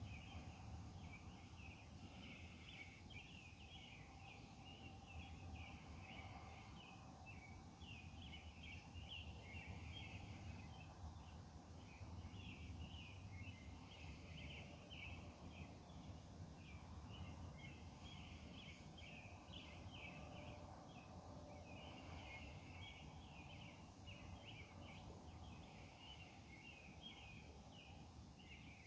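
Faint nighttime chorus of insects, a dense, continuous chattering of quick irregular pulses, over a low steady rumble.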